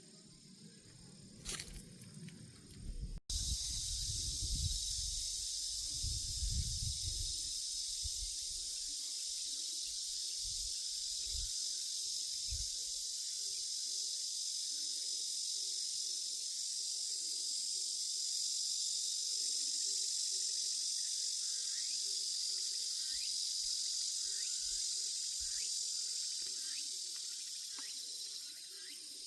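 Dense, steady insect chorus, a high-pitched shrilling with a fine rapid pulse, starting abruptly about three seconds in. Low rumbling comes and goes under it for the next several seconds.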